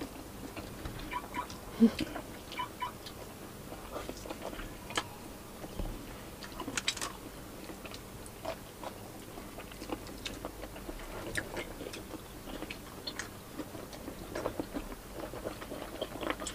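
Close-up chewing of people eating fish with their hands, with scattered small mouth clicks.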